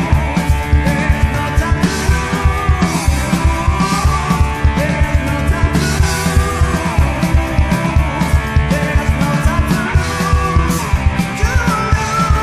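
Heavy metal band playing: distorted electric guitars, bass and fast, driving drums. Pitched lines bend through the mix, and near the end a high note slides up and is held.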